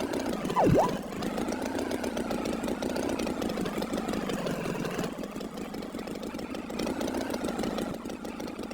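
Tractor engine chugging steadily, an animation sound effect. About a second in, a quick whistle-like tone swoops down and back up.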